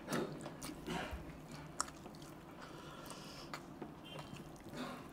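Close-miked chewing and wet mouth sounds of meat being eaten: a piece of chicken in gravy being bitten and chewed, with soft scattered clicks and squelches.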